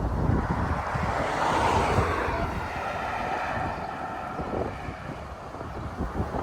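Wind buffeting the microphone in irregular low gusts, over a rushing noise that swells about a second in and then eases off.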